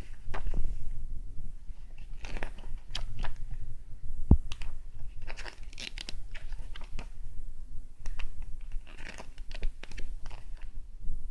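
CD packaging being handled: plastic crinkling and crackling in short bursts, with a single knock about four seconds in.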